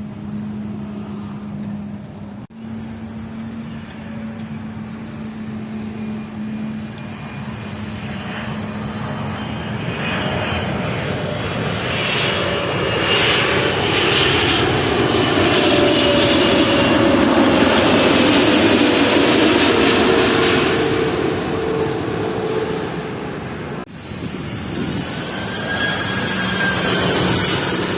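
Jet airliner passing low overhead on landing approach: engine noise builds to a peak about two-thirds of the way through, with a whine that drops in pitch as the plane goes by, then fades. Wavering higher whines follow near the end.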